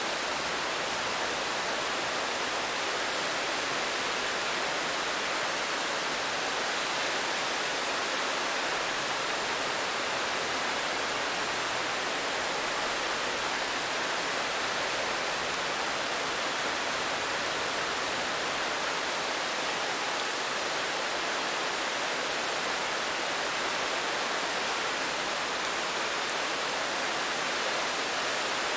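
Steady rain, heard as an even hiss with no separate drops standing out and no change in level.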